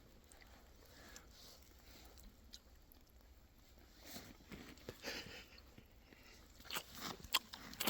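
Faint chewing and mouth sounds of someone eating steak, with scattered small wet clicks that come more often in the second half.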